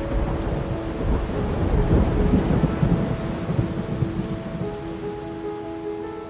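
Heavy rain with rumbling thunder, a dense steady downpour that slowly fades over the second half as soft sustained music notes come in.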